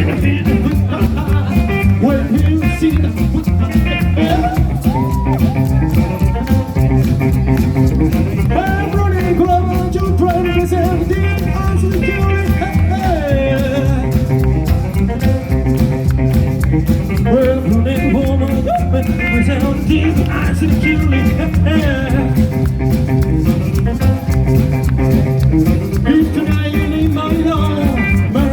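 Rockabilly band playing live: electric guitar lines over bass and drums with a steady beat.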